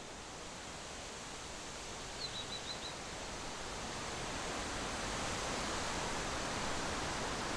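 Steady outdoor rushing noise that grows slowly louder, with a quick run of about five high chirps a little over two seconds in.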